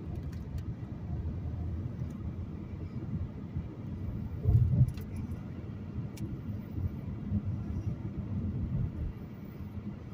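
Steady low rumble of a car driving, heard from inside the cabin, with a brief louder bump about halfway through.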